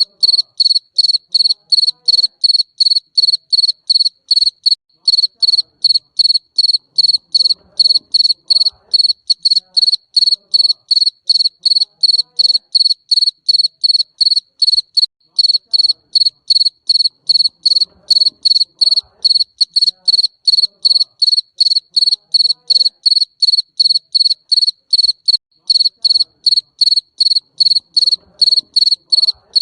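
Garden cricket chirping steadily in a loud, high, evenly spaced rhythm of about three chirps a second.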